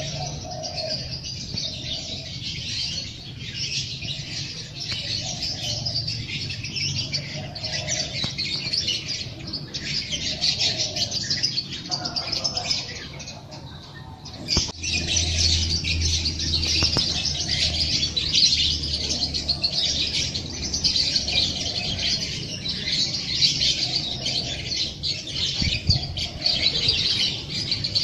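Many small songbirds chirping and twittering together, over a dove cooing in a low note repeated every second or two. The chorus drops away briefly a little before halfway, then returns louder.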